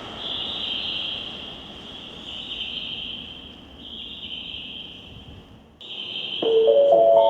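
Crickets chirring in long high-pitched trills, one after another, with the last of a passing train's rumble fading in the first moment. About six and a half seconds in, a station chime of several clear tones begins, the signal that a platform announcement is coming.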